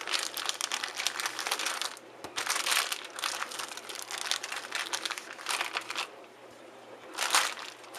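A bag of bird treats being handled and rustled in repeated bursts, quieter for about a second before a short, louder rustle near the end.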